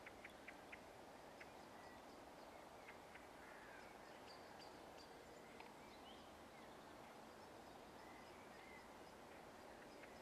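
Faint dusk ambience: a steady low background hiss with scattered short, high bird chirps and a few brief whistled calls, several close together in the first second.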